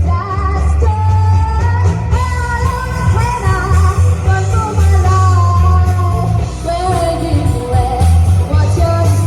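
Live rock band playing a song, with a lead vocal sung over amplified instruments and a heavy bass line.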